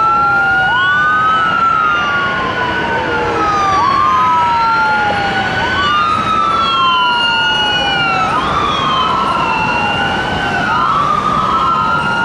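Emergency vehicle sirens in a slow wail: two sirens overlap, each rising quickly and falling slowly again about every two seconds.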